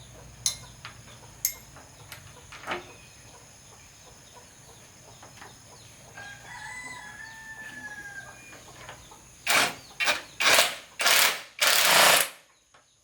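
A few sharp clicks, then a rooster crowing once in the middle. Near the end come five short, loud hissing bursts.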